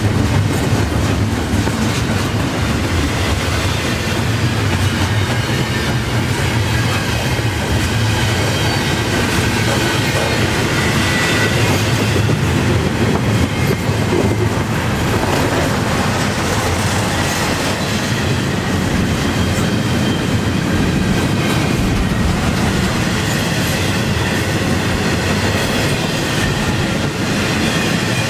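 Double-stack intermodal well cars of a CN freight train rolling past at about 28 mph: a steady, loud rumble and rattle of steel wheels on the rails.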